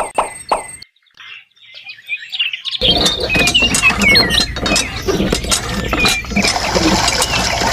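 A few short plops, then about three seconds in a busy chorus of small birds starts up: quick chirps and tweets over a steady low hum and many small clicks.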